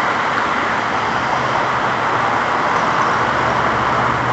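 Steady, dense din of a large flock of birds calling all at once, a blur of voices with no single call standing out. A faint low hum comes in about a second in.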